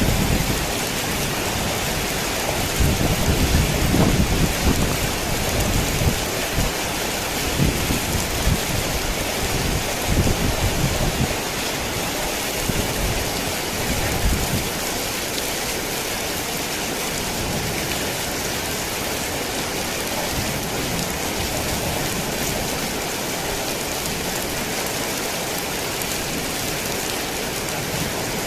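Heavy rain falling steadily, with low rumbles of thunder rolling through the first half that die away about halfway through.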